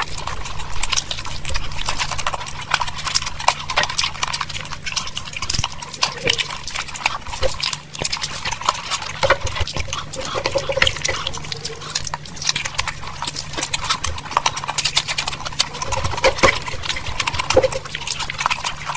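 Close-miked chewing of chicken curry and rice: wet, sticky mouth clicks and lip smacking in a dense, irregular stream.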